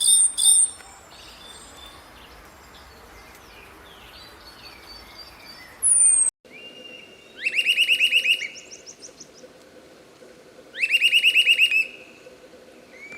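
Small songbirds singing: a few loud high calls and softer twittering, then, after an abrupt cut, two loud trills of rapid repeated rising notes, each about a second long and a few seconds apart.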